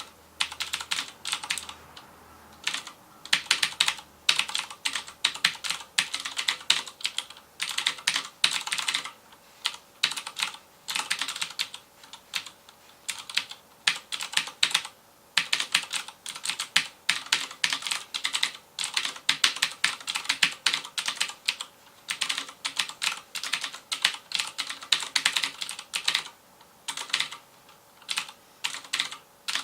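FILCO Majestouch Convertible 2 mechanical keyboard with clicky Cherry MX Blue switches being typed on fast. The keystrokes come in quick bursts of a second or two with brief pauses between them.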